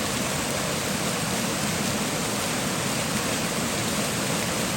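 Small waterfall pouring over slate bedrock: a steady rush of falling water.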